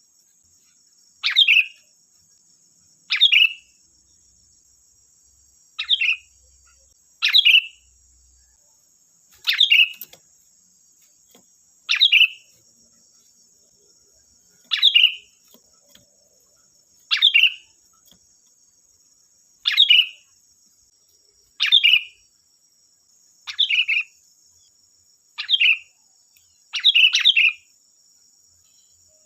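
Sooty-headed bulbul (kutilang) calling: about a dozen short, loud, falling calls, one roughly every two seconds, with a quick double call near the end. A faint steady high hiss runs underneath.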